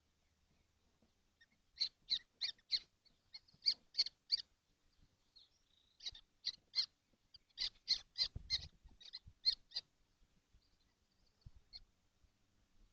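Common kestrels calling in their nest box: short, high calls in quick runs of three to five, with a pause of a second or two between runs.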